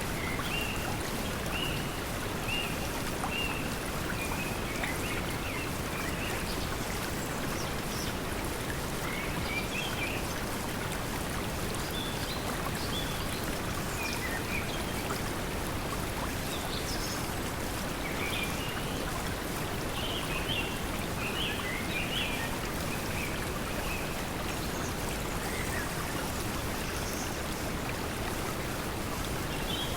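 Steady pink noise mixed with flowing water, with short bird chirps scattered over it at several points.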